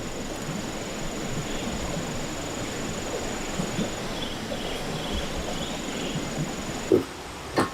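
Forest ambience with insects buzzing: a steady high insect drone that drops out about halfway and comes back, with a pulsing insect call in the middle. Near the end come two short, louder low animal sounds.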